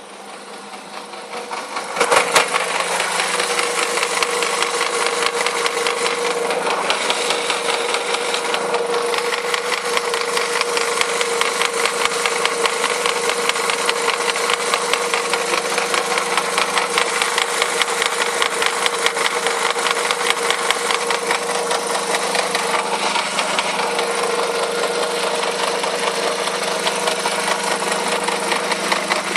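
Audi A4 engine starting about two seconds in, then idling steadily with a rapid, even rattle.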